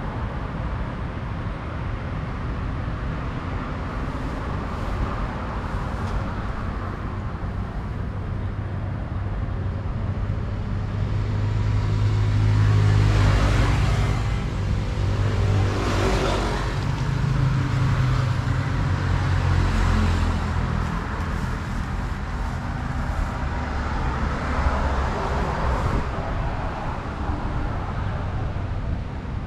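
Truck engine running with a steady low drone, with road traffic noise. It grows louder toward the middle, as a vehicle passes close by, then settles again.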